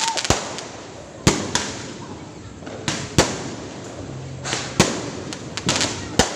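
Fireworks going off: a string of sharp bangs, roughly one to two seconds apart, with bursts of crackling between them.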